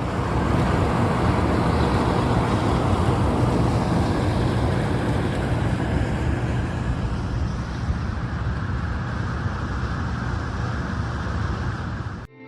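Steady rushing rumble from a small hydroelectric plant, its water and machinery running, that cuts off abruptly near the end.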